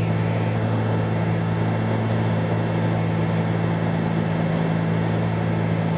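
The 1974 Cessna 310Q's twin piston engines and propellers running steadily in flight, heard inside the cabin as an even drone with a low hum that holds one pitch.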